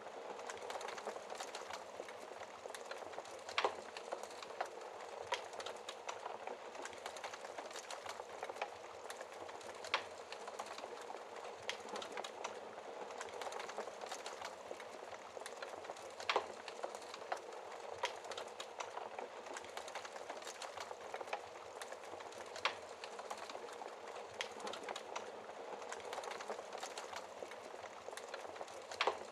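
Wood fire burning in a fireplace, crackling steadily, with sharper pops every several seconds.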